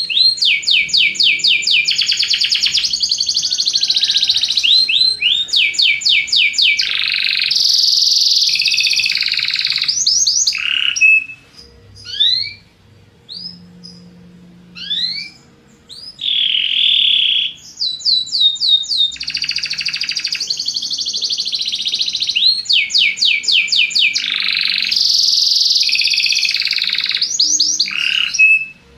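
Belgian canary singing: long, loud phrases of fast repeated-note trills and rolls. About halfway through the song breaks off into a few scattered single chirps, then resumes with more trilled phrases.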